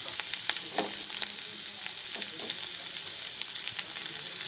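Mushrooms, onions and garlic frying in mustard oil in a steel kadai, with a steady sizzle and scattered crackles, as ginger-cumin paste goes in and a steel spatula works it through the pan.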